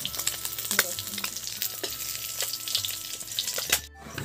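Boiled eggs sizzling in hot oil in an iron kadhai, a steady hiss dotted with sharp crackles of spattering oil. The sound drops out briefly near the end.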